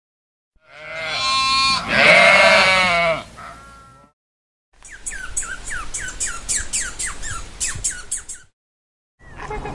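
Sheep bleating, two long wavering calls. Then a squirrel's run of short chirps, each falling in pitch, about three a second, with sharp clicks among them.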